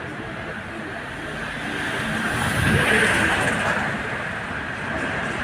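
A road vehicle passing close by, its noise swelling to a peak about three seconds in and then fading.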